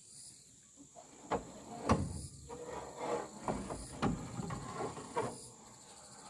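A run of irregular knocks and clatters, about six sharp ones spread over several seconds.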